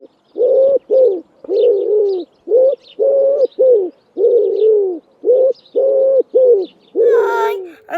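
A pigeon cooing: a string of low hooting coos, mostly in pairs, with faint chirps from small birds above them. A child's voice starts near the end.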